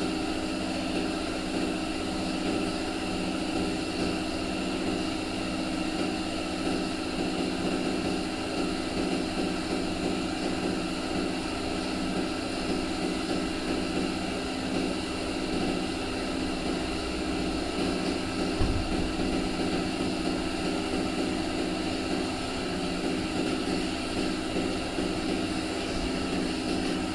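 Steady mechanical drone of a running machine, an even hum with constant tones that does not change pitch, with one brief low thump about two-thirds of the way through.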